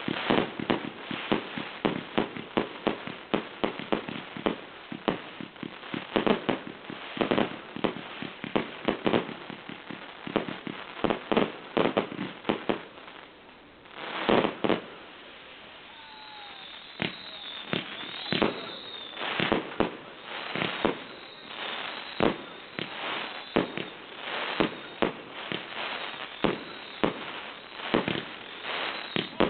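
Fireworks display: a dense run of sharp bangs, several a second, that thins out briefly about halfway through and then picks up again with high whistles among the bangs.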